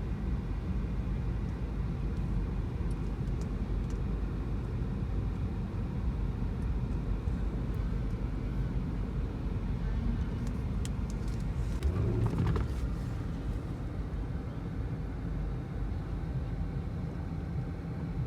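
Steady low rumble of a car's engine and tyres on the road, heard from inside the cabin while driving, with a brief louder swell about twelve seconds in.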